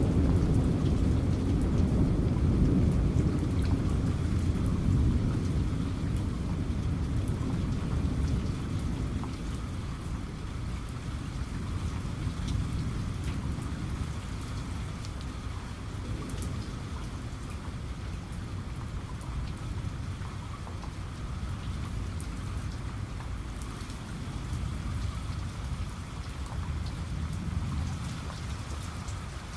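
Rain falling steadily, with a low rumble of thunder dying away over the first several seconds.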